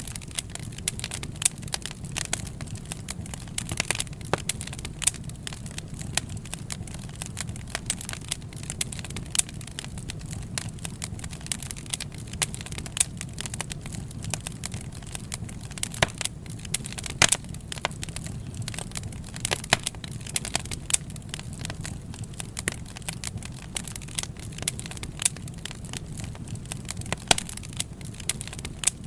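Wood fire crackling: a steady low rumble of burning with frequent, irregular sharp pops and snaps, a few much louder than the rest.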